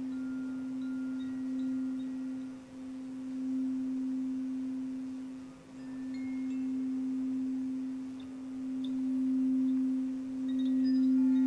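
A singing bowl sustaining one pure, steady low tone that swells and fades in slow waves, dipping briefly twice. Faint high chime notes ring over it now and then.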